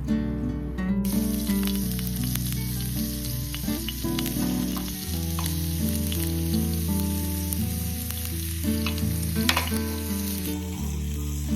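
Food sizzling as it fries, a steady hiss with small pops starting about a second in, over soft background music.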